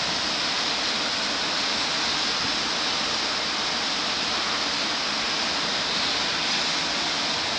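Rain falling: a steady, even hiss.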